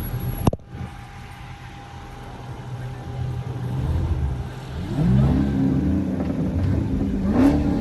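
Car engine rumbling at idle after a sharp click near the start, then revved about five seconds in, its pitch rising in steps and holding, with another quick rise near the end.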